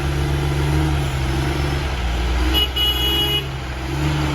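Stewart & Stevenson M1090 dump truck's diesel engine running steadily, its pitch shifting about two seconds in. A short high beep sounds briefly just after the middle.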